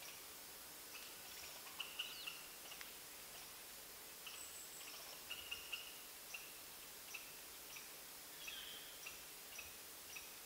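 Faint, short, high chirps from a small bird over a steady forest hiss: a quick cluster about two seconds in, then a string of chirps roughly every half second from the middle on.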